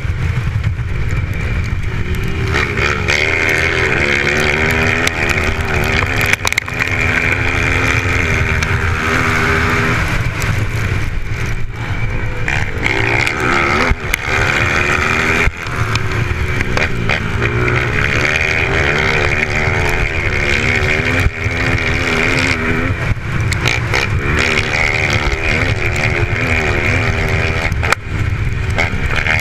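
Motocross dirt bikes racing, their engines revving up and down in pitch as the riders go round the track, with a few sharp clicks.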